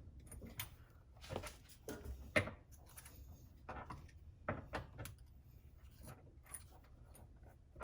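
Scattered light clicks and knocks from hands handling tools and parts, with a sharper knock about two and a half seconds in.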